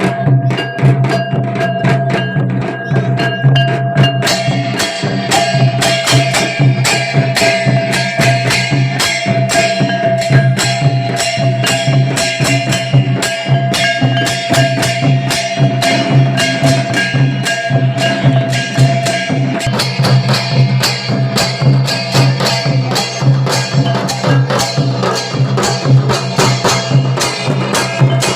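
Santali traditional dance music: fast, dense drum and percussion beats over a steady held melodic tone, growing fuller in the high end about four seconds in.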